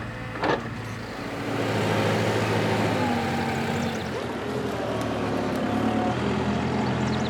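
Engine of a large farm machine running steadily, getting louder about a second and a half in as it works. There is a short knock about half a second in.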